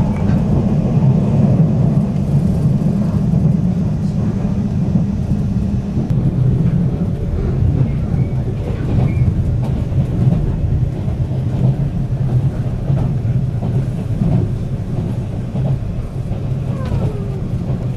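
Steady low rumble of a JR Hokkaido train running, heard from on board.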